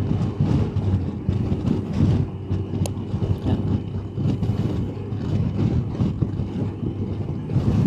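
BMW R1200GS motorcycle under way, its boxer-twin engine running steadily beneath gusting wind rush. A single sharp click sounds about three seconds in.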